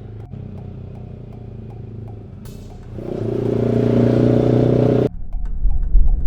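Yamaha R15 V4's single-cylinder engine breathing through an SC Project full-system free-flow exhaust: a steady low idle, then a rev about three seconds in that climbs for two seconds and cuts off sharply. A heavy, uneven low rumble follows near the end.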